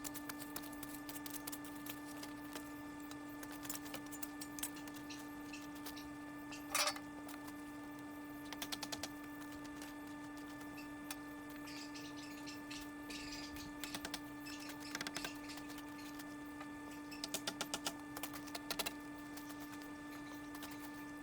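A steady hum with a constant tone, with scattered light clicks and rattles in short clusters: one sharper click about seven seconds in, and a quick run of clicks near the end.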